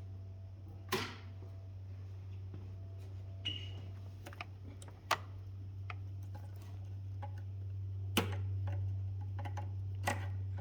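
2014 Jeep Grand Cherokee engine idling with a steady low hum and a ticking from the valvetrain, the sign of a failed lifter, rocker arm roller and camshaft. A few sharper clicks stand out now and then.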